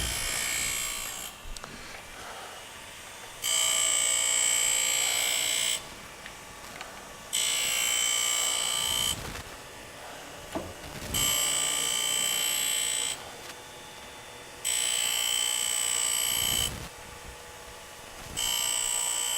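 Eisen 618B manual surface grinder's wheel grinding a small block on the magnetic chuck as the table is traversed back and forth by hand: a high, ringing grinding whine lasting about two seconds on each pass, about every three and a half seconds, with the spindle running quietly between passes.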